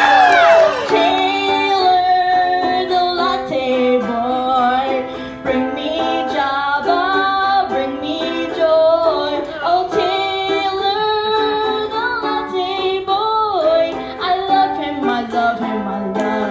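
A woman singing a song live over a plucked string accompaniment, opening on a long held note with vibrato.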